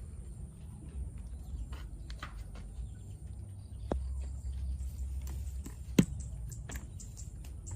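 Small toy trucks being handled, with scattered light clicks and knocks over a low rumble, and one sharp click about six seconds in.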